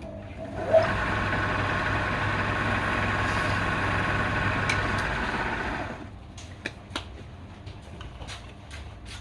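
A motor starts with a short rising whine, runs steadily for about five seconds, then cuts off.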